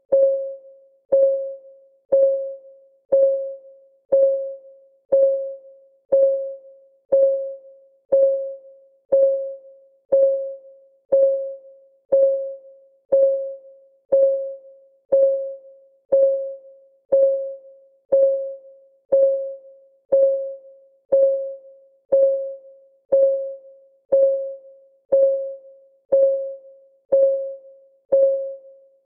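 Countdown timer's clock ticking sound: one crisp tick every second, each tick a short pitched note that fades quickly, perfectly even throughout.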